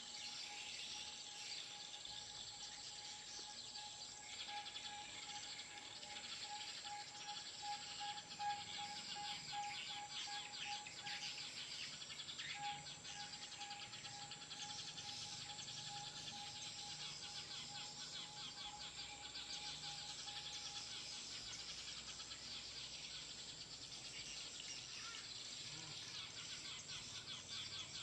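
Eurasian tree sparrow lure call: many sparrows chirping in a dense, continuous chatter. A thin steady tone sounds underneath and stops about three quarters of the way in.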